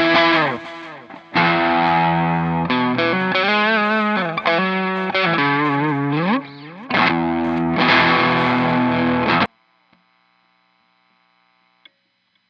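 Clifton Alnico Stratocaster electric guitar played through distortion: chords and lead lines with bent and wavering notes, with a couple of short pauses. It cuts off suddenly about nine and a half seconds in, leaving only a faint hum.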